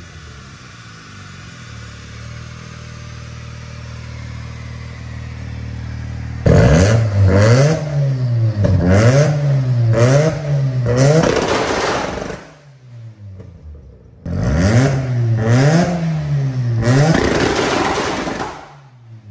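Mazda RX-7 FD rotary engine idling, then revved hard in quick repeated blips from about six seconds in. After a short pause near the middle, a second run of blips comes and then drops back near the end.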